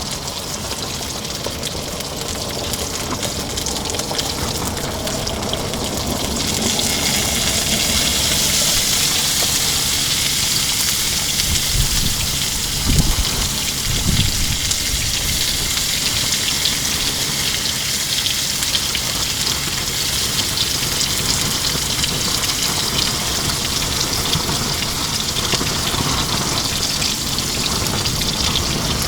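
Salmon fillet sizzling in a pan on a propane camp stove: a steady, rain-like sizzle that grows louder about six seconds in. A couple of low thumps come near the middle.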